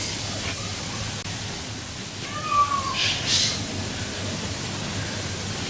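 Steady rushing background noise. About halfway through there is a short whistled note that falls slightly, followed by two brief hissy sounds.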